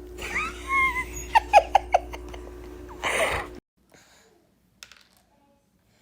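A baby squealing and giggling in short, sharp bursts, then a breathy burst, before the sound cuts off abruptly to near silence about three and a half seconds in.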